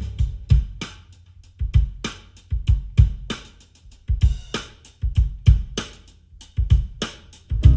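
Recorded music: a drum kit playing alone, with kick, snare, hi-hat and cymbal in a steady beat, as the intro of a song played back on a car audio system.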